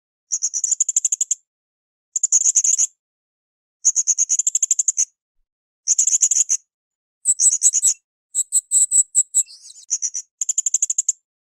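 Blue-crowned hanging parrot (srindit) calling in short, high-pitched rapid chattering trills, each about a second long, repeated about every one to two seconds; midway the notes change to a different chirping pattern before the trills resume.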